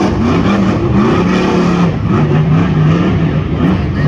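Rock bouncer race buggies' engines revving hard, pitch rising and falling repeatedly as they are throttled on and off.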